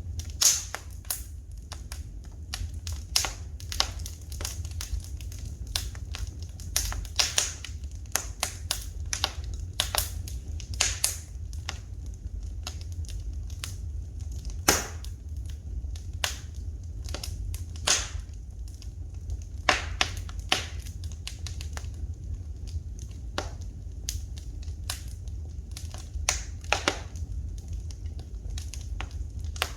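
Wood fire in a fireplace crackling, with irregular sharp pops and snaps, some much louder than others, over a steady low rumble.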